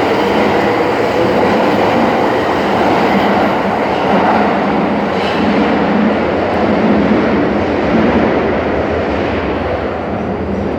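Tokyo Metro Marunouchi Line train moving at an underground station platform: steady running and wheel noise, easing off a little near the end.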